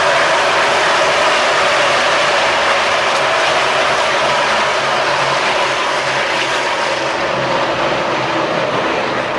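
Steady, loud roar of NASCAR stock-car V8 engines racing, heard from pit road, easing slightly in its upper range about seven seconds in.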